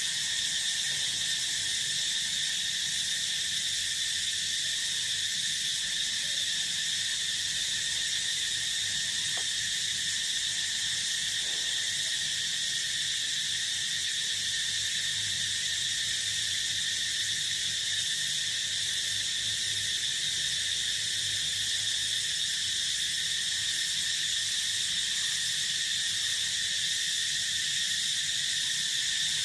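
Dense, steady chorus of field insects, crickets trilling together in several pitch bands without a break.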